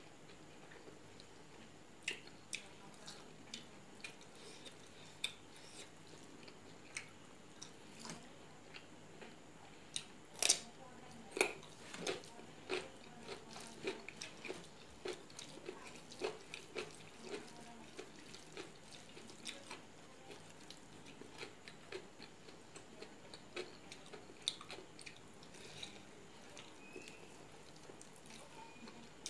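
Close-miked eating sounds: a person chewing mouthfuls of rice and curry with lip smacks and small wet clicks, a steady run of short sounds, loudest about ten to twelve seconds in.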